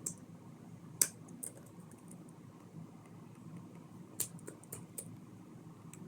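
LEGO plastic pieces being handled and pressed together: a few sharp plastic clicks, the loudest about a second in and a cluster of smaller ones between four and five seconds in.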